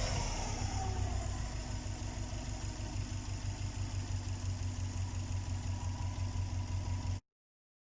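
Subaru EJ207 turbocharged flat-four engine settling from a rev back to a steady idle with an even pulse. The sound cuts off suddenly near the end.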